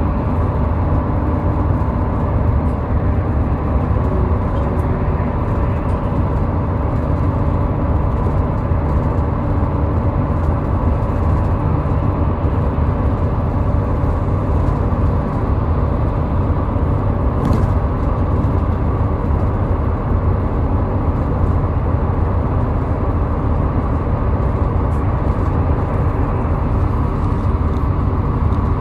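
Steady road and engine noise of a car driving at highway speed, a constant deep rumble with no letup.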